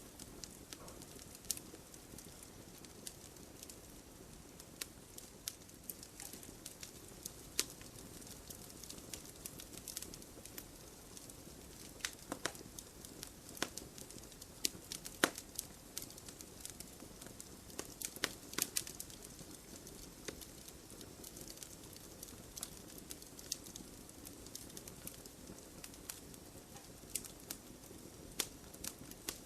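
Wood fire burning in an open fireplace, crackling: irregular sharp pops and snaps, a few louder ones, over a steady low rush of flame.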